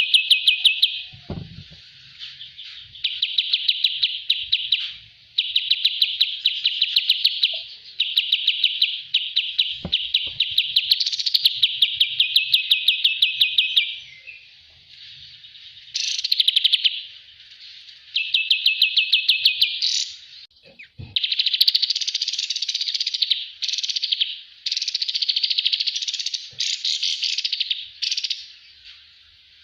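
A kapas tembak song bird singing: fast, trilled phrases of rapidly repeated high notes, each phrase lasting one to three seconds, with short pauses between them.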